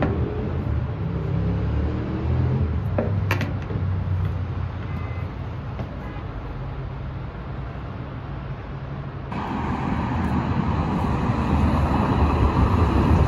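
Outdoor city street noise: road traffic with a steady low rumble, and a sharp knock about three seconds in. About nine seconds in the sound changes abruptly to a louder, brighter rush of traffic noise.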